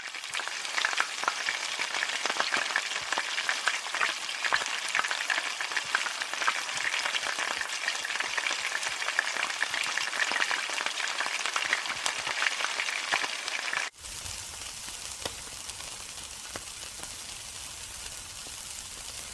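Hot oil sizzling and crackling loudly as food deep-fries in a wok. About two-thirds of the way through it cuts abruptly to a quieter, steadier sizzle of meat skewers grilling over coals.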